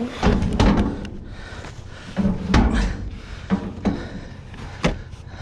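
A run of heavy thumps, bangs and knocks, about six in a few seconds, as a bulky scrap item is shoved and wrestled into place on a vehicle.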